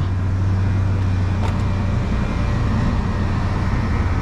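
Truck engine running with a steady low drone, with one faint tick about a second and a half in.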